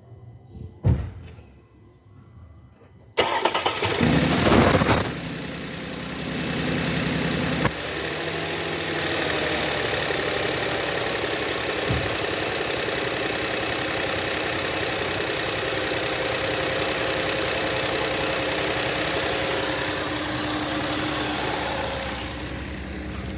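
A single knock, then the Audi 3.0 TFSI supercharged V6 starts about three seconds in, flaring high briefly as it catches. It then settles into a steady cold-start idle, running with its intake hose off the throttle body.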